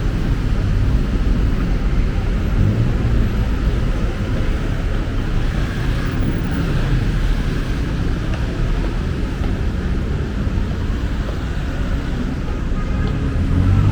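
Urban street traffic: a steady rumble of passing motor vehicles with no single standout event.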